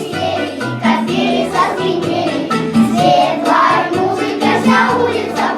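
Children singing a song together to instrumental accompaniment.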